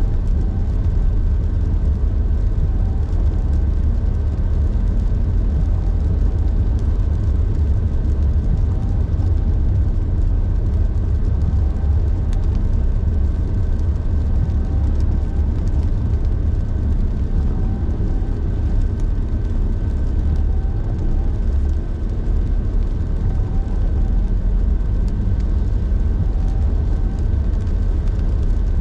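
A car driving along the road: a steady, deep rumble of road and engine noise, with a faint steady whine running through it.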